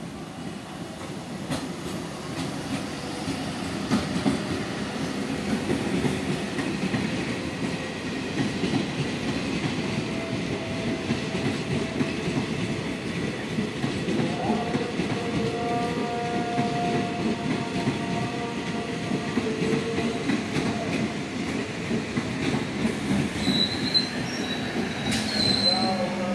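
Multiple-unit passenger train running past on the near track, the rumble growing over the first few seconds and then holding, with a rapid clatter of wheels over the rails. A squealing tone comes in about halfway and holds for several seconds, and a higher wheel squeal sounds near the end.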